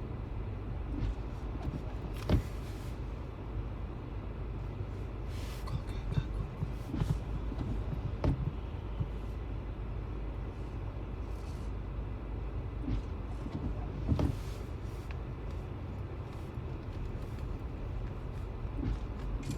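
Steady low rumble of a car heard from inside the cabin, moving slowly in snowstorm traffic, with a few scattered sharp knocks; the loudest is about two seconds in, and another comes near fourteen seconds.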